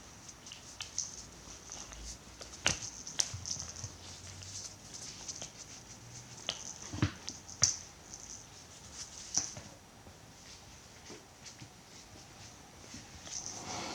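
Cats playing with a toy mouse: scattered light taps and knocks of paws and toy on the floor, a few seconds apart, over a faint steady high hiss.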